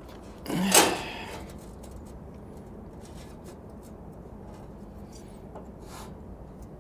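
A single short scrape with a clunk about half a second in, like a hard object being dragged or set down, followed by a few faint small clicks of handling.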